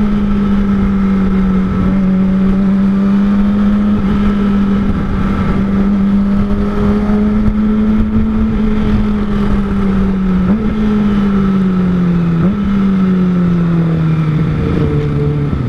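Kawasaki ZX-25R's 250 cc inline-four through an R9 Zeta aftermarket exhaust, heard from the bike while riding: the engine holds a steady high note for most of the time, then its pitch sags gradually over the last few seconds, with two brief jumps in pitch on the way down. A low rush of wind and road runs underneath.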